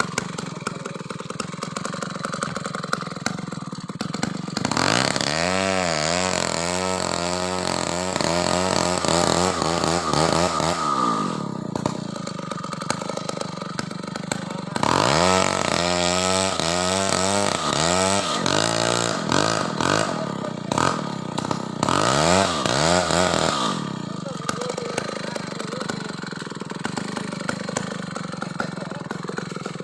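Chainsaw running, revved hard in three long spells about five, fifteen and twenty-two seconds in, its pitch swinging up and down, with a steadier engine sound between.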